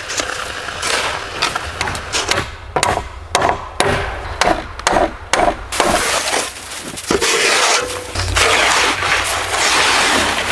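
Old wood being knocked about and broken, with a quick run of sharp cracks and knocks in the middle and a longer rough rustling noise near the end.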